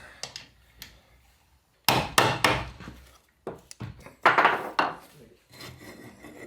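Hand tools and sockets knocking and clanking against the metal parts of a Land Rover Series gearbox as it is stripped down. There are a few sharp knocks, the loudest about two seconds in and again just past four seconds, with lighter clicks in between.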